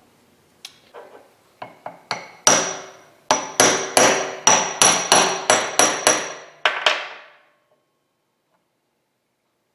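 Hammer striking metal to mark hole locations with transfer punches. A few light taps are followed by about a dozen sharp, ringing blows, about three a second, which stop about seven seconds in.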